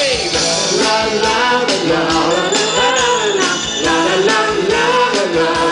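Live band playing a rock song: a melody line weaving up and down over drums and a bright, jingling percussion part.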